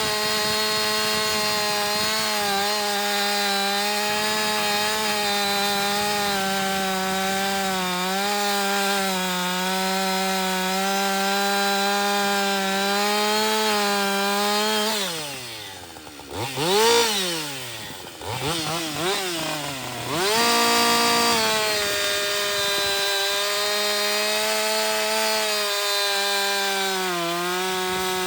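Two-stroke chainsaw fitted with a Holzfforma chain, cutting a sycamore stump at full throttle, its engine note sagging slightly under load. About halfway through the throttle is released and the engine drops to idle, is blipped twice, then revs back up to full speed to cut again.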